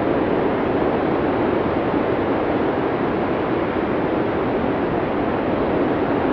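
Arctic blizzard wind sound effect: a steady, even rush of storm wind with no gusts or whistling tones.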